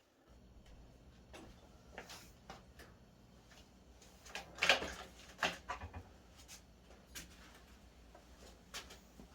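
Scattered light clicks and rustles, loudest in a short cluster about five seconds in, over a low steady hum.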